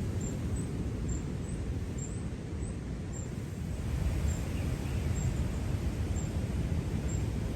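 Outdoor wind rumbling on the microphone, a steady low buffeting noise, with a faint bird chirp about halfway through.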